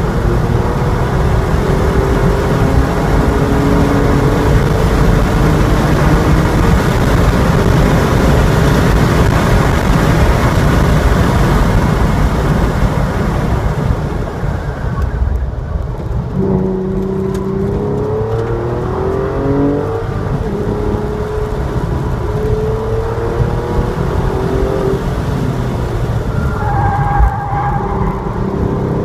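Porsche 911 Targa 4's flat-six engine heard from inside the cabin under hard track driving, with heavy wind and road noise at speed. About halfway through, the wind noise falls away as the car slows for a corner, then the engine pulls again in several rising sweeps.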